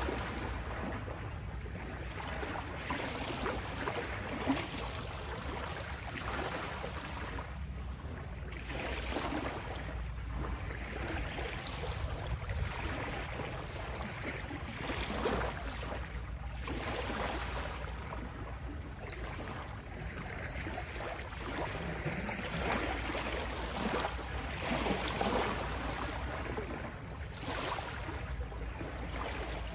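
Small sea waves rippling and lapping, a steady watery hiss that swells and ebbs every few seconds.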